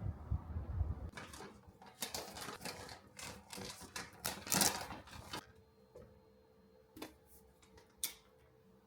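A quick run of light clicks and rustles lasting a few seconds, then a faint steady hum with three single clicks about a second apart near the end.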